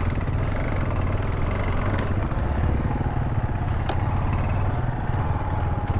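Single-cylinder motorcycle engine running at steady low revs, with a couple of faint ticks.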